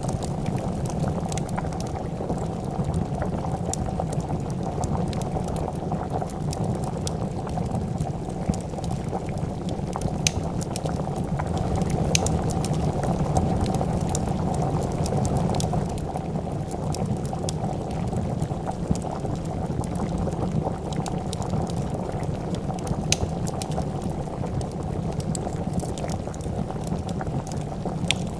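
A pot of soup bubbling steadily at a boil, with scattered sharp crackles from a wood fire.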